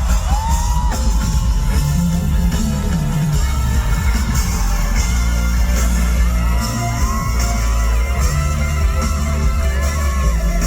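Loud live rock-band music filling a concert hall, with high, held screams from the audience rising and falling over it.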